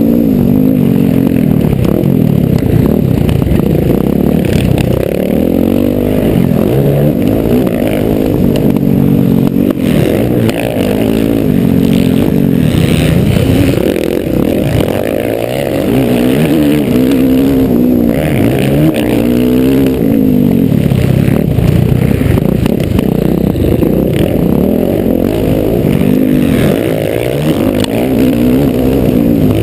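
Motocross bike engine heard from on the bike, revving up and falling back over and over as the rider accelerates and shifts around a dirt track, with rattling from the bike.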